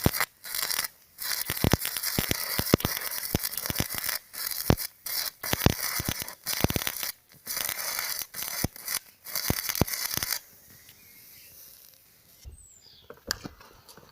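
Battery-powered electric welding arc crackling and hissing, breaking off for brief moments several times, then stopping about ten seconds in.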